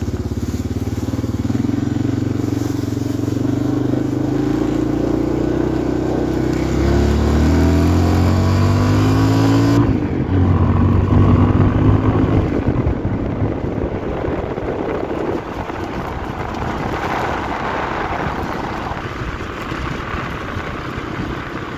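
1990 Yamaha XT350's single-cylinder four-stroke engine under way on a dirt trail, its pitch climbing as it revs up about a third of the way in, then changing abruptly near the middle as it shifts or comes off the throttle, with rougher running after that.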